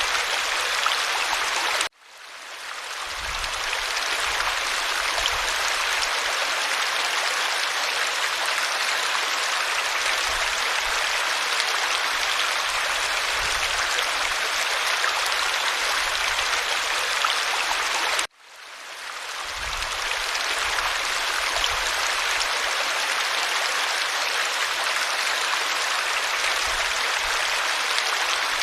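Steady rushing and babbling of a stream. It cuts out suddenly twice, about two seconds in and again near eighteen seconds, each time fading back in over a second or two.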